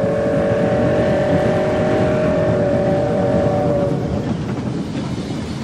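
Steam locomotive whistle blowing one long, steady chord of several tones that stops about four seconds in, over the constant rumble of the moving train.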